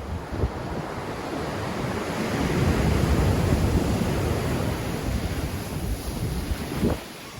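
Black Sea surf in a strong wind: a wave breaks and washes in, swelling over a couple of seconds and then easing off, with wind buffeting the microphone. The sound drops suddenly near the end.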